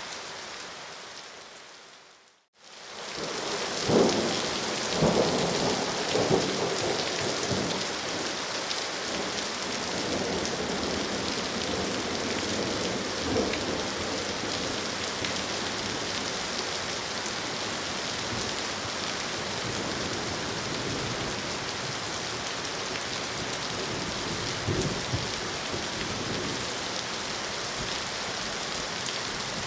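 Steady rain with several low rumbles of thunder, most of them in the first dozen seconds and one more near the end. About two seconds in, the rain fades out to a brief silence and fades back in.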